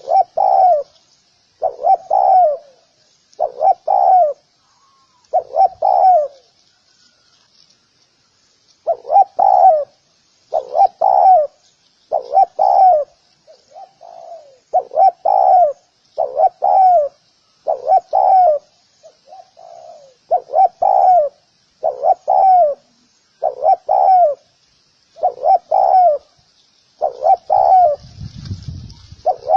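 Spotted dove cooing over and over, a short phrase about every two seconds, with a pause of about three seconds a quarter of the way in. A faint high twittering runs underneath, and a low rumble comes in near the end.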